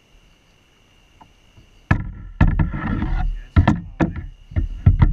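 A run of sharp knocks and bumps on a kayak, with a brief wash of water noise, starting about two seconds in. Underneath is a steady high drone of night insects.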